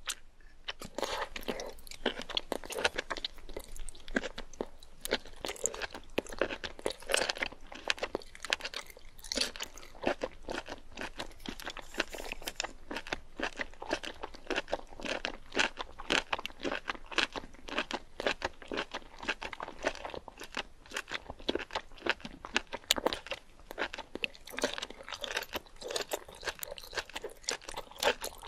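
Close-miked chewing of spicy sauced octopus tentacles: a constant run of crunchy chewing clicks, several each second.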